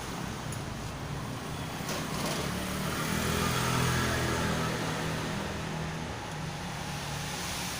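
A motor vehicle passing by: a low engine hum that grows to its loudest about four seconds in and then fades back to a steady background.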